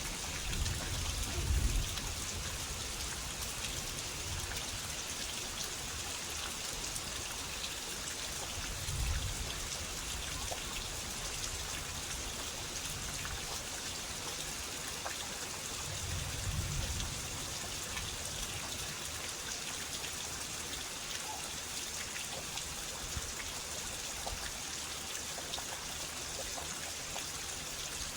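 Heavy rain falling hard in a steady, dense hiss. Dull low thuds come about a second in, again around nine seconds and around sixteen seconds.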